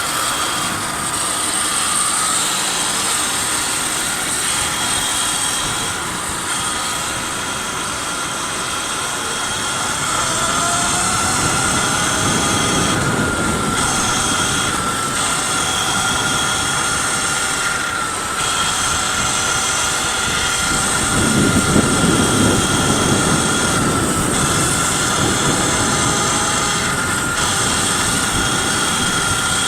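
Electric bike motor whining steadily under way, over wind rushing on the microphone; the wind gusts louder about three-quarters of the way through.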